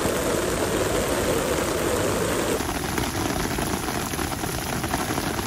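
Heavy rain pouring steadily onto an umbrella and wet paving stones. Its sound changes abruptly about two and a half seconds in.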